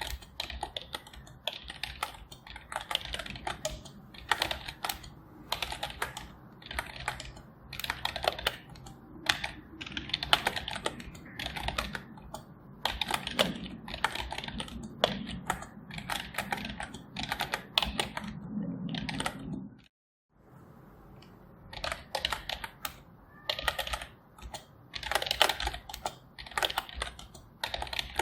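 Typing on a computer keyboard: keys clicking in quick runs with short pauses between them. The sound cuts out completely for a moment about twenty seconds in, then the typing resumes.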